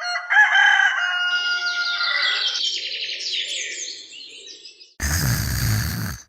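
Birds chirping, with several overlapping whistled calls and quick rising chirps. About five seconds in, a short burst of rough noise cuts in and stops just before the end.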